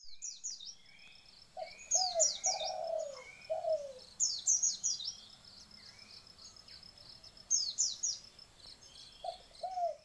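Birds calling: clusters of quick, high, descending chirps come every two to three seconds. Runs of a few lower notes that rise and fall sound early on and again near the end.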